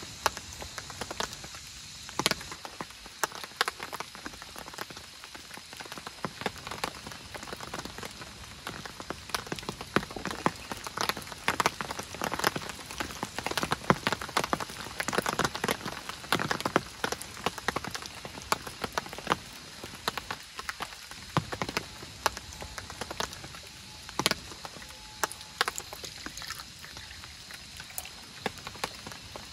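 Steady rain, with many separate drops landing close by in sharp taps.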